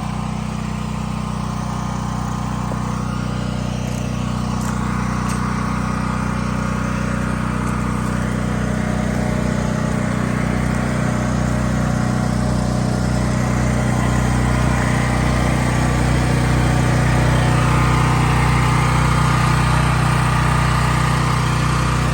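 A small engine running steadily at an even speed, with a low hum that holds its pitch and grows gradually louder through the middle and later part.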